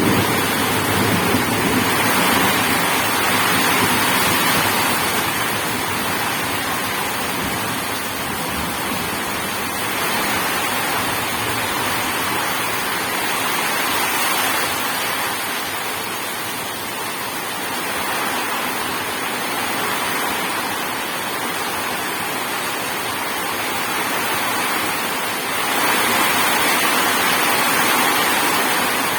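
Steady heavy rain, an even hiss that swells and eases slowly and grows louder near the end. A low thunder rumble dies away in the first second.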